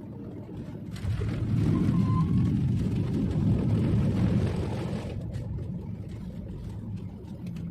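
Airliner cabin noise during landing: a steady low rumble, with a surge of louder engine and rushing roar starting about a second in and easing off about five seconds in, as after touchdown.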